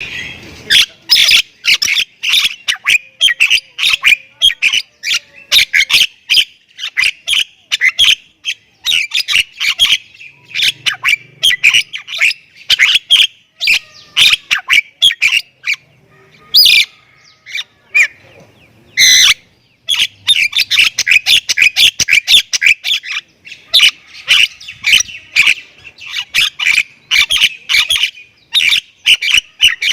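Jalak kebo myna singing hard: a fast, dense run of loud, sharp whistles, chatters and squawks, a few each second, with two short lulls.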